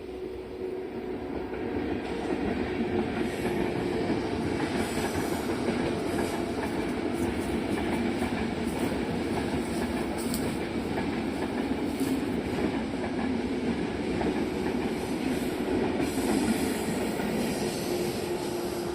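Train running along the track: steady wheel-on-rail noise with a steady hum, building over the first two seconds and then holding.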